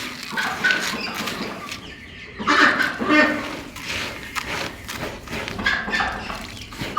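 Domestic poultry calling, a run of short repeated calls, loudest about two and a half to three and a half seconds in.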